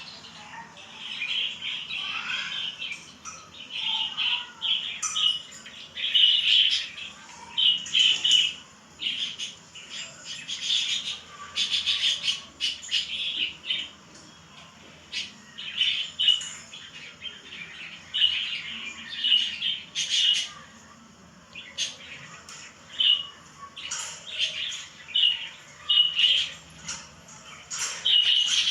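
Pet lovebirds calling: rapid, shrill chirps and squawks in bursts, with short pauses between them.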